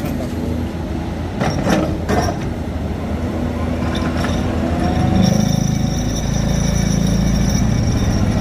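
Heavy diesel machinery, typical of a hydraulic excavator working rock, running continuously, with a few sharp metallic clanks about two seconds in. About five seconds in the engine grows louder and settles into a steady, rapidly pulsing drone.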